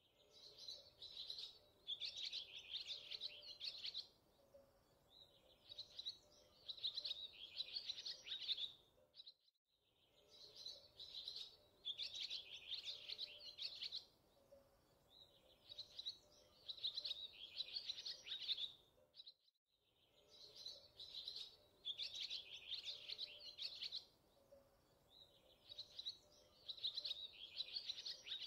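Birdsong: clusters of quick high chirping phrases, fairly quiet. The same short stretch of song repeats three times with a brief silent gap between each, a looped recording.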